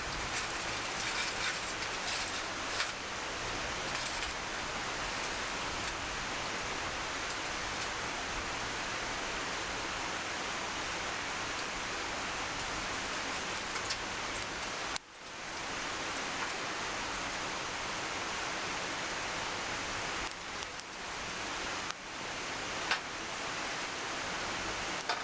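A wood campfire burning, with a few faint crackles and pops over a steady rushing hiss.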